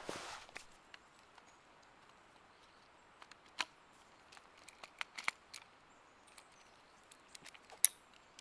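Brief rustle of footsteps fading out at the start, then scattered sharp clicks and small taps of something being handled, the loudest near the end.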